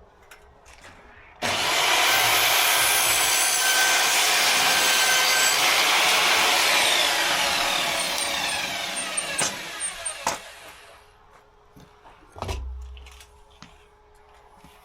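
An electric power saw cuts a wooden panel: it starts abruptly, cuts steadily for about five seconds, then its motor winds down with a falling whine. A couple of clicks and a dull thump follow near the end.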